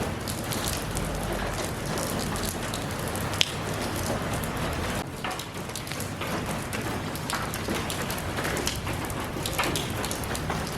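Steady rain falling, a continuous hiss with many individual drops pattering on a surface, one sharper drop hit about three and a half seconds in.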